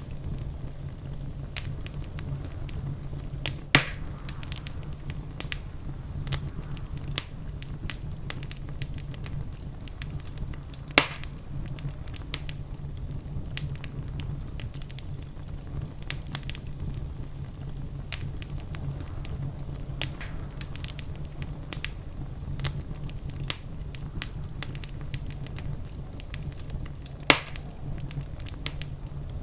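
Wood fire burning in a fireplace: a steady low rumble of flame with constant small crackles, and three louder sharp pops spread through it.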